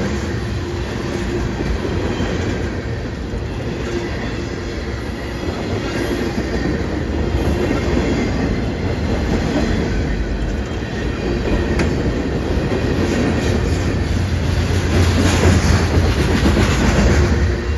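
A train rolling past: a continuous, steady rumble of railcars on the track with scattered sharp clicks, getting a little louder near the end.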